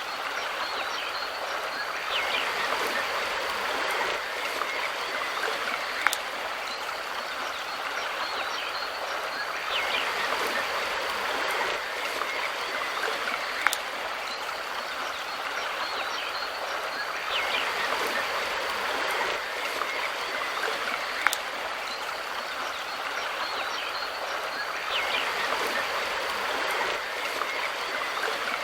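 A river stream running with a steady rush of water. A sharp click sounds about every seven and a half seconds, and the whole pattern repeats at that spacing.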